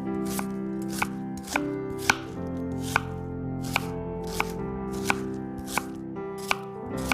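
Knife chopping on a cutting board, sharp evenly paced strokes about one and a half a second, over background music.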